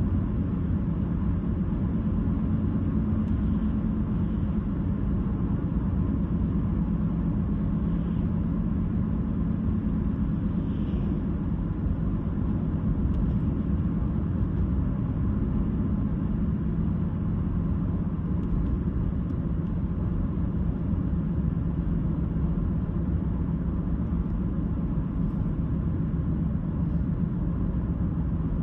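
A car driving at a steady speed: a continuous low road and tyre rumble with the engine underneath, with no change in speed.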